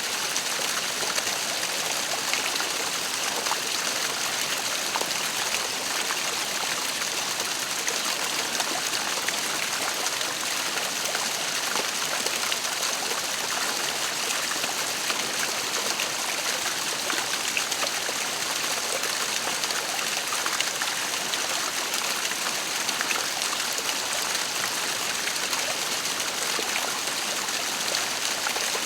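Waterfall: water falling and splashing in a steady rush, with small splashes and trickles throughout.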